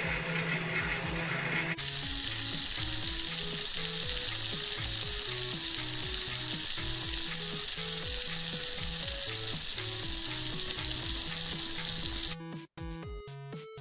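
Salmon sizzling as it cooks in a microwave oven: a loud, steady hiss that starts suddenly about two seconds in and cuts off near the end. Background music plays throughout.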